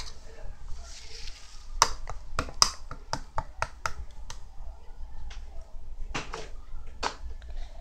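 Hotcake-textured slime being squeezed and pressed by hand, giving irregular sharp clicks and pops, a few each second.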